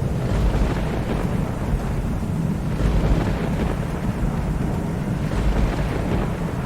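Steady rain with a continuous low rumble of distant thunder, no sharp thunderclap.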